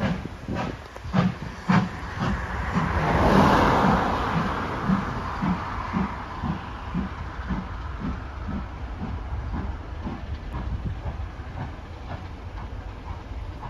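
Passenger train rolling past, its wheels clicking over the rail joints in a steady rhythm of about two knocks a second. A hiss swells to its loudest about three to four seconds in, then fades.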